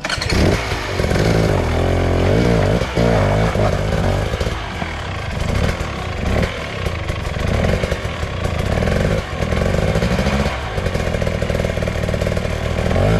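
Off-road motorcycle engine revving hard and dropping back again and again, its pitch rising and falling as the throttle is worked under load.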